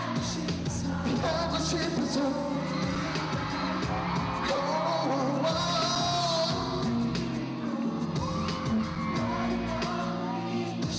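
Pop song with a male lead vocal over a steady beat and bass, performed live, with fans screaming and cheering over it.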